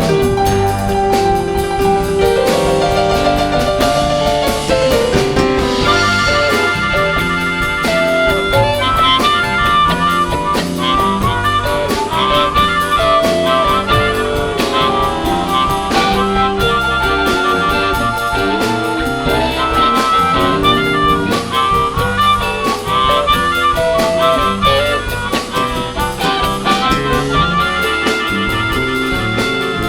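A live band playing an instrumental passage, with held melody notes over a steady full-band backing.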